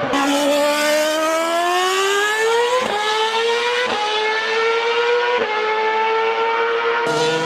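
VOX .21 (3.5cc) nitro glow engine of an on-road RC car running at high revs. Its high-pitched note climbs over the first few seconds and then holds, with three brief dips in between and a drop near the end.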